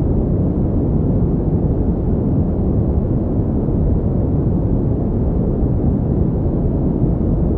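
Steady pink noise: a constant, deep, even hiss with most of its weight low down and little above about 1 kHz, unchanging throughout.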